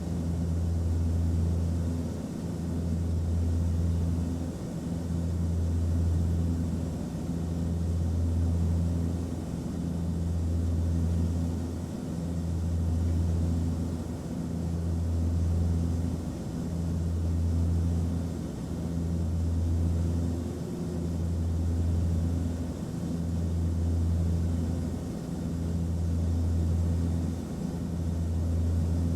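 Airplane cabin noise: a steady low drone from the aircraft in flight, rising and falling in a slow, even swell about every two seconds.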